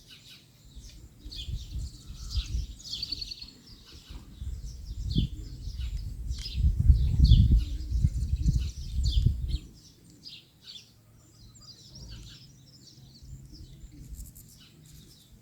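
Birds chirping in many short high calls throughout, with a low rumble that is loudest from about five to nine and a half seconds in.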